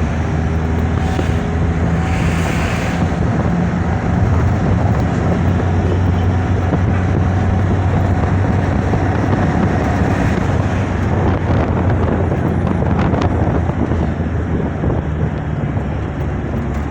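Steady engine and road noise of a moving motor vehicle, a low hum, with wind buffeting the microphone.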